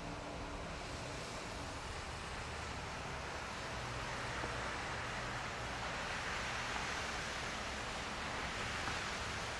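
Heavy rain pouring down steadily, an even hiss that grows a little heavier about four seconds in.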